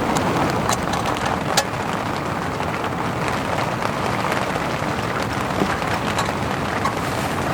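Steady rain falling, with scattered single drops tapping sharply.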